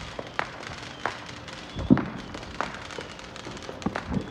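Fireworks going off: a scatter of irregular pops and cracks, the loudest a low bang about two seconds in.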